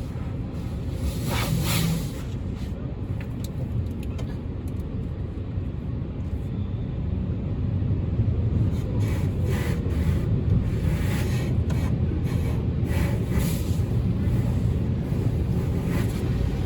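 Steady low rumble of a car heard from inside the cabin, with several short hissing swells over it.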